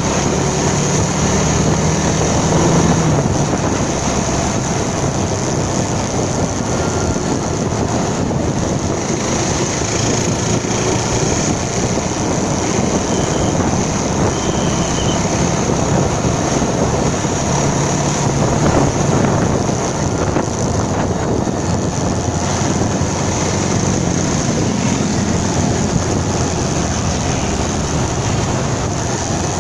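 Motorcycle engine running on the move, under a steady rush of wind on the microphone; the engine's low hum comes up a little at a few points.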